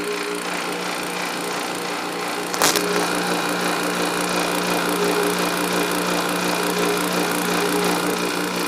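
Electric refrigeration vacuum pump running steadily with a low hum, pulling a vacuum on a window air conditioner's sealed refrigerant system. It gives a knock about two and a half seconds in and runs a little louder after it.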